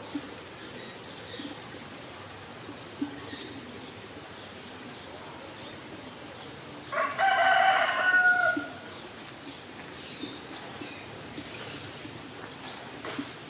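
Birds calling: scattered short high chirps, and about seven seconds in one loud, drawn-out call with several pitches that lasts nearly two seconds and rises a little at its end.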